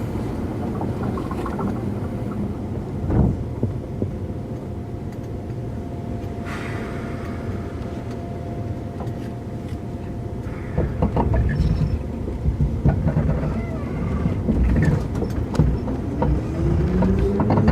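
Interior running sound of a Keikyu 2000-series electric train car (DeHa 2052): a steady low rumble, then from about 11 s louder rumbling and clatter as the train gets going. From about 15 s the traction motor's whine rises in pitch while it accelerates. The motor is thought to be a Mitsubishi unit, known for an unusual groan when powering at low speed.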